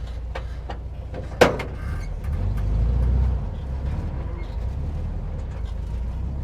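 Strong desert wind buffeting the microphone: a low rumble that swells for about a second, two to three seconds in. A single sharp knock comes about a second and a half in, with a few lighter clicks around it.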